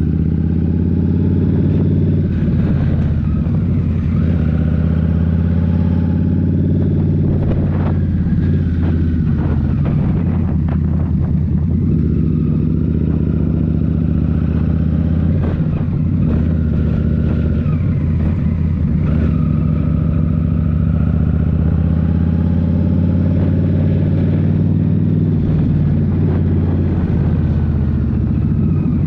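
2023 Indian Scout Rogue's 69 cu-in V-twin running through a Rinehart slip-on exhaust under way, its note rising and falling several times as the throttle opens and closes.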